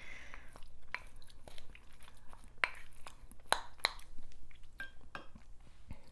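Close-miked eating sounds: a person chewing clam meat, with wet mouth clicks and smacks and a few light clinks of shell or utensil.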